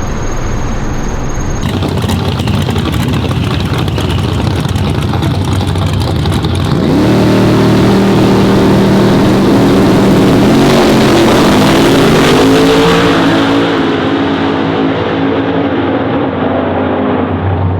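Drag-racing truck engine running hard under load: loud noise at first, then about seven seconds in a strong pitched engine drone comes in, climbing in steps before easing off near the end.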